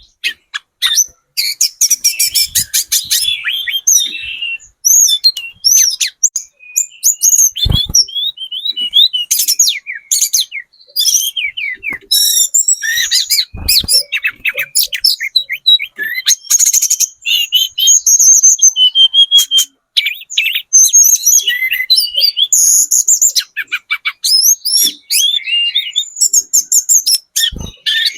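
Tledekan gunung (mountain shortwing-type songbird) singing a fast, continuous stream of high chirps, trills and twittering phrases, used as a lure song to draw other birds into answering. A brief low thump sounds three times.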